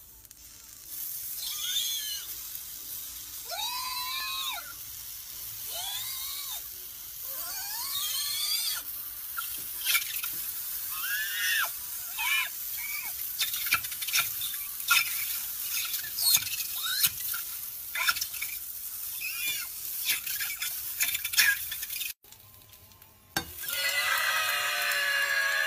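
White dough balls frying in a nonstick pan, sizzling, with repeated squeals that rise and fall in pitch, each about a second long, as chopsticks move them. After a short break near the end, a loud, harsh, scream-like squeal comes as a spatula presses on them.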